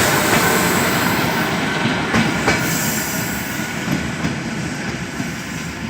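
ED4M electric train running out of the station: a steady rush of wheels and running gear, with a couple of sharp clacks over rail joints about two seconds in, the whole sound slowly fading as the train draws away.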